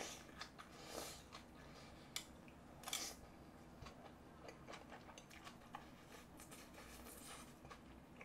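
Faint close-up chewing of a mouthful of food, with soft wet mouth clicks and smacks, the loudest about one and three seconds in.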